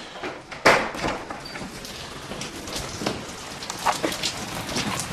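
A door being opened, with a sharp knock of the latch or door about a second in, then heavy thunderstorm rain coming in louder toward the end.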